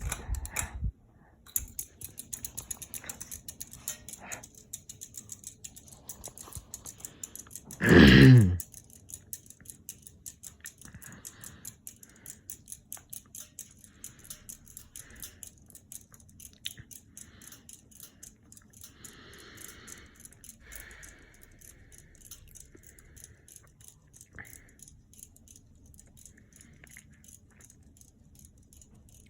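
Seagull Lighting ceiling fan running on high, with a regular quick ticking a few times a second. A single loud, short burst comes about eight seconds in.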